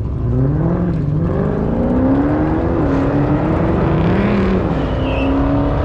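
A car accelerating hard down a drag strip, its engine pitch climbing and then dropping several times as it shifts up through the gears.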